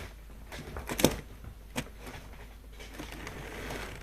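Model railway on a home layout: a cluster of sharp plastic clicks and knocks, the loudest about a second in and another just under two seconds in, then a soft steady running noise from the model train. The train is being worked toward the depot track but will not go in.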